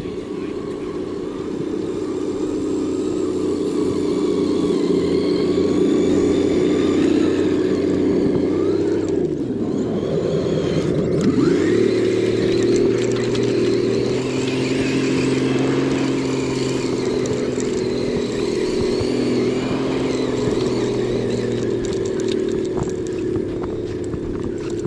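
Electric motor and gear drive of an RC crawler truck whining steadily. The pitch drops as it slows almost to a stop about nine seconds in, then rises again as it speeds back up and runs on.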